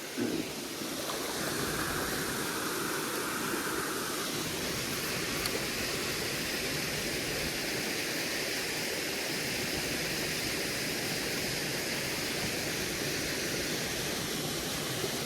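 Spring-fed waterfall pouring into a creek: a steady, even rush of falling water.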